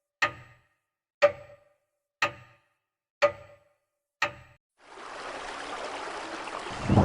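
A clock ticking once a second, each tick sharp and briefly ringing, five ticks in all. The ticks stop at about five seconds in, and a steady hiss fades in and grows louder near the end.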